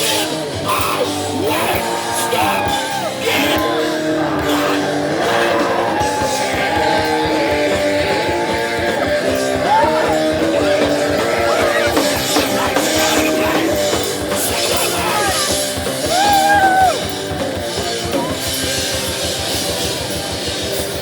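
A hardcore punk band playing live at full volume: distorted electric guitars, bass and fast, dense drumming.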